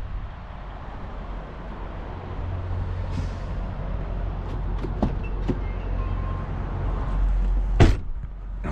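Steady low rumble of a running vehicle engine, with a few light clicks and one sharp knock near the end.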